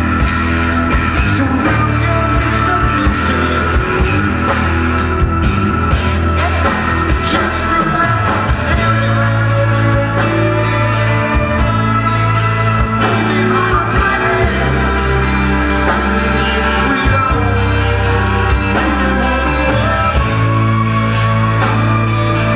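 Live rock band playing: bass, guitar and drums with evenly spaced cymbal strokes, and a sung lead vocal.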